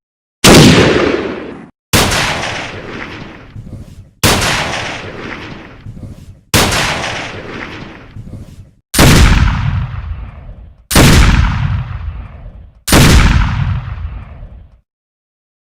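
Gunshot sound effects: seven single shots about two seconds apart, each a loud sharp report with a long echoing decay that is cut off before the next. The last three have a heavier, deeper boom.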